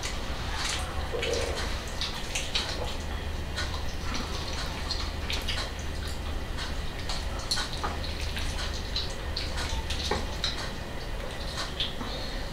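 Eating sounds of people gnawing meat off chicken legs held in their hands: many small, irregular wet chewing and lip-smacking clicks over a steady low hum.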